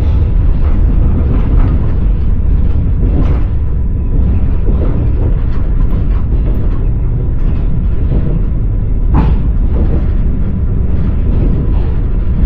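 Railway carriage in motion, heard from inside: a loud, steady low rumble of wheels on rails, with a few sharper wheel knocks at rail joints, the loudest about nine seconds in.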